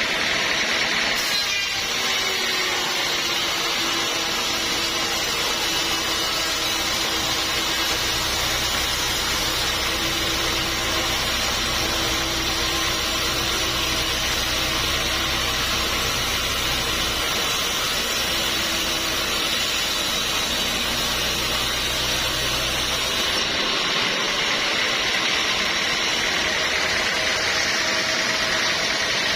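Sawmill saw cutting through a teak log over a steadily running engine. The cut starts about a second in and ends about 23 seconds in, after which the machine runs on without load.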